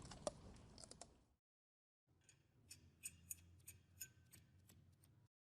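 Faint, sharp clicks and light knocks, scattered and irregular, with a short dead-silent gap near the start and a few stronger clicks in the second half.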